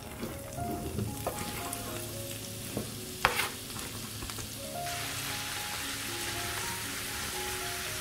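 Shredded white cabbage dropped into a pan of hot melted butter: rustling and a sharp knock about three seconds in, then a steady sizzle of frying from about five seconds in.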